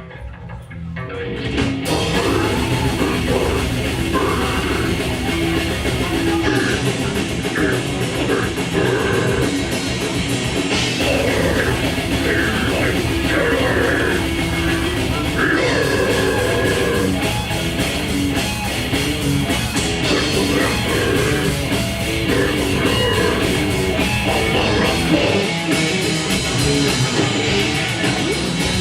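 Live grindcore band playing loud: distorted electric guitars, bass and drum kit. The full band comes in about two seconds in after a thinner opening and keeps going.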